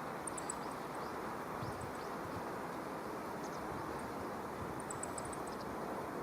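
Steady rushing outdoor ambient noise, with faint, very high-pitched chirps of small birds in two brief clusters: one just after the start and one about five seconds in.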